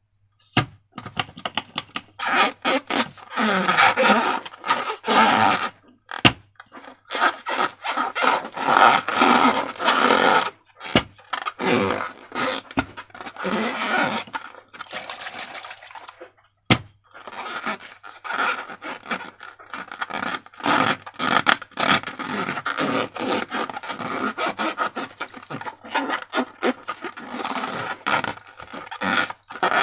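Slime being worked by hand, with scraping and squishing in irregular bursts, short pauses between them, and a few sharp clicks.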